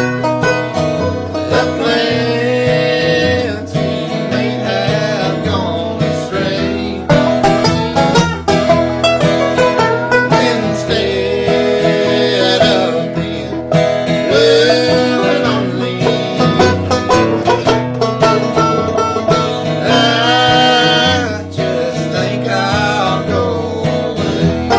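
Banjo and guitar picking a bluegrass tune together, the banjo's quick rolls over a steady guitar bass line.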